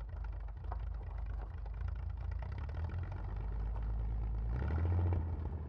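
Car engine running with a low, pulsing rumble that swells louder about four and a half seconds in.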